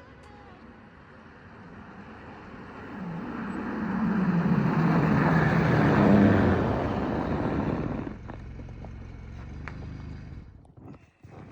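A car's engine and road noise swell as the engine note climbs, then drop suddenly about eight seconds in to a quieter running noise that fades out near the end.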